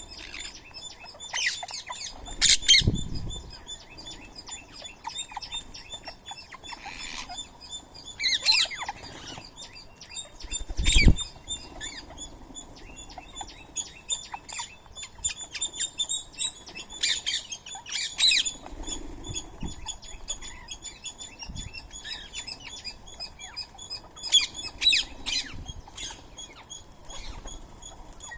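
Birds at a feeding spot chirping continuously, with louder calls scattered throughout. Twice, about three seconds in and about eleven seconds in, there is a sharp thump or wing flap.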